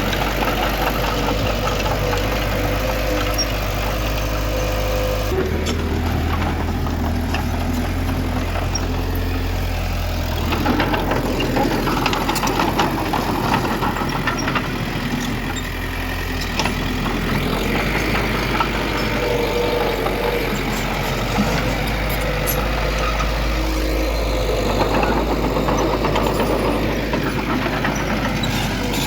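Heavy diesel engine of earthmoving machinery running steadily, its pitch and loudness shifting every few seconds as the load changes.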